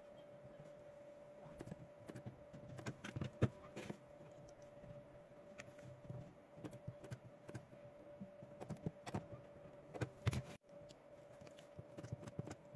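Scattered light clicks and knocks of hands handling 18650 lithium-ion cells and their wiring while assembling a battery pack, over a faint steady hum.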